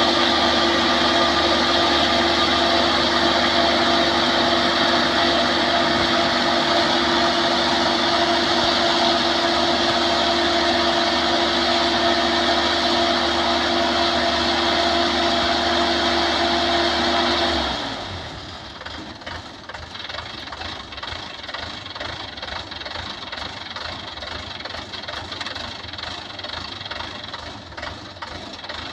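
Combine harvester running steadily with a constant engine hum; about two-thirds of the way through the steady drone cuts off abruptly, leaving a quieter, uneven rattling engine sound.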